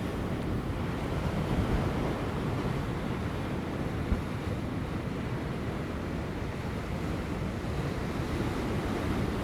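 Ocean surf breaking on offshore rocks: a steady, deep wash of waves with light wind on the microphone, and one brief thump about four seconds in.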